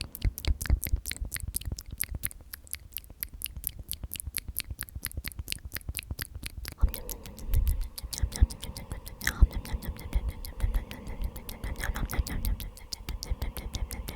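Close-miked ASMR whispering of the word 'omnomnom', repeated over and over, full of quick wet mouth and lip clicks several a second. The breathy whisper grows fuller about halfway through.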